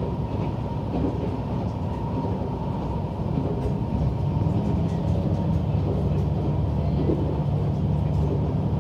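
Inside a diesel railcar running along the line: a steady engine drone with wheel and rail noise. The drone grows louder and steadier about three to four seconds in.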